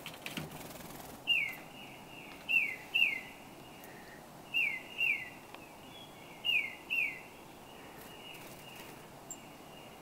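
A small songbird whistling: about seven clear notes, mostly in pairs, each sliding down in pitch. A brief rustle comes at the very start.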